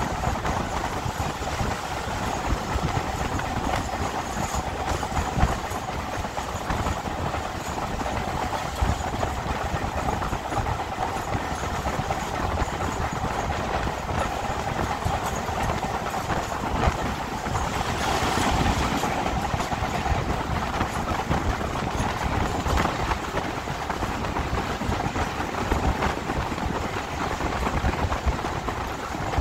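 Diesel-hauled heritage train running along the line, its wheels clicking steadily over the rail joints. There is a briefly louder stretch a little past the middle.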